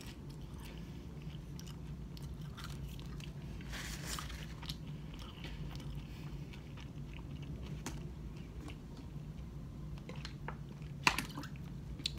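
Close-up chewing of a French fry: soft mouth sounds with scattered small clicks, and one sharper click near the end.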